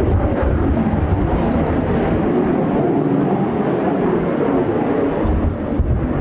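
Steady jet engine noise from the Blue Impulse team's Kawasaki T-4 jets, with strong wind buffeting the microphone in gusty low rumbles.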